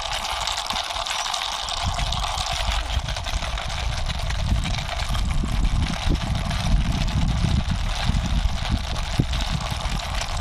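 Plastic toy vehicle pushed by hand across a surface: a low rolling rumble with scattered small clicks, starting about two seconds in, over a steady background hiss.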